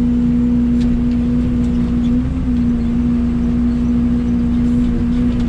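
Mini excavator's diesel engine running steadily at work, a constant droning hum at one even pitch.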